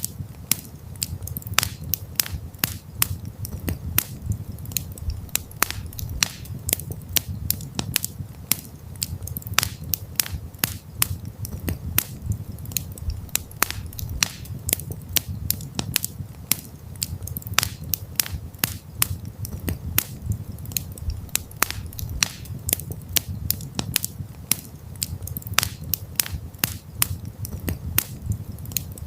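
Wood campfire crackling: frequent, irregular sharp pops and snaps over a low steady rumble.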